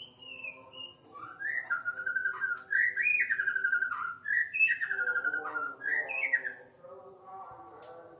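White-rumped shama singing: a run of loud whistled phrases that glide up and down, starting about a second in and stopping near seven seconds.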